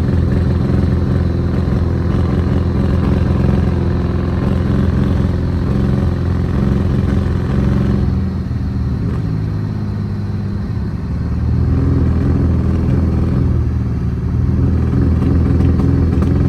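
BMW E46's engine running under way, heard from inside the cabin along with road noise; it eases off about halfway through and picks up again later. The driver says the car feels like it is about to blow up.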